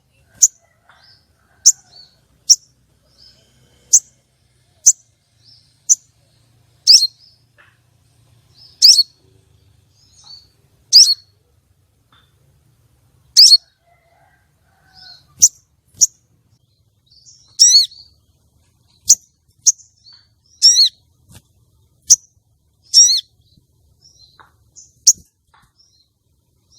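Female sogon sunbird calling: a steady series of short, sharp, high-pitched chips about a second apart, some louder and sliding downward, with a few quick trilled notes in the second half. These are the female calls used to lure and rouse male sogon into display.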